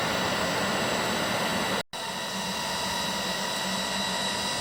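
Train at the station: a steady hiss and hum with constant high whining tones. The sound cuts out abruptly about two seconds in and comes back slightly quieter.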